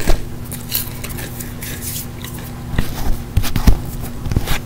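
Crunching and chewing of spicy hot Cheetos, in short crisp bursts. Several sharp knocks come in the second half.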